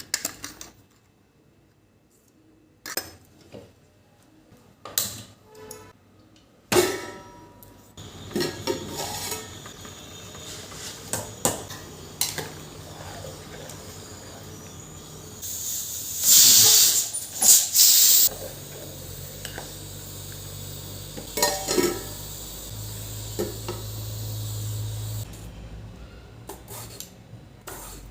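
Kitchen cooking sounds: dishes, pots and utensils clinking and knocking. The knocks are scattered at first. From about eight seconds in they sit over a steady hiss and low hum, with a louder rushing stretch a little past the middle.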